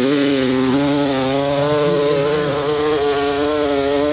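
Dirt bike engine held at high revs on a hill climb, a steady engine note that wavers slightly in pitch as the throttle is worked.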